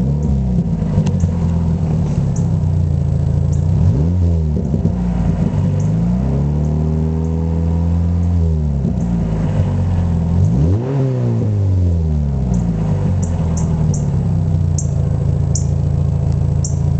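Dodge Neon's four-cylinder engine idling through a new exhaust with two inline Morroso Spiral Flow mufflers, revved several times: a quick blip at the start, another a few seconds in, a longer rev held for a couple of seconds in the middle, one more blip later, then back to idle. The mufflers are not yet broken in, so the tone is still a little high.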